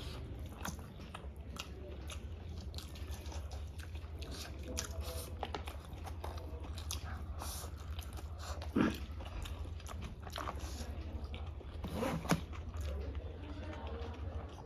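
Close-miked eating: chewing and biting food, with many short crunchy clicks.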